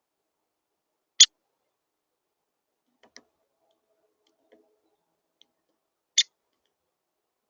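Two sharp clicks about five seconds apart, the first about a second in and the second near the end, with a few faint ticks between, from a female downy woodpecker at a suet and seed feeder.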